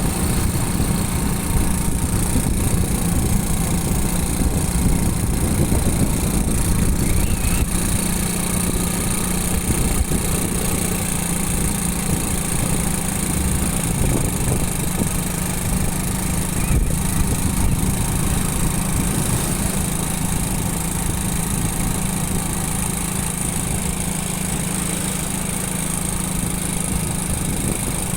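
Small motorcycle engine running steadily while riding, with a constant low hum and road and wind noise.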